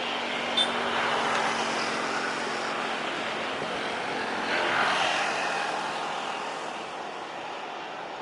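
Jet airliner engine noise: a steady rush that swells twice, with one sharp click about half a second in.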